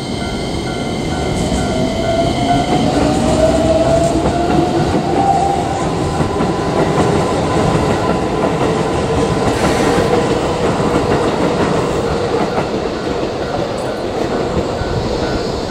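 Electric commuter train running along the track, with wheels clacking over rail joints. Its motor whine rises in pitch over the first few seconds, then holds steady.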